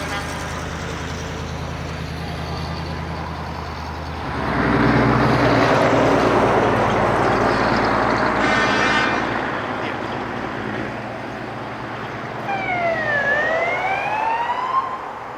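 Heavy trucks driving past: a low engine hum, then a loud passing truck with engine and road noise and a short horn blast. Near the end a siren sweeps down and back up.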